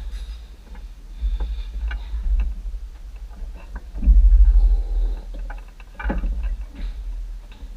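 Low rumbling thumps with scattered knocks and clicks, from hands working a tractor cab's ceiling panel into place; the loudest rumble comes about four seconds in.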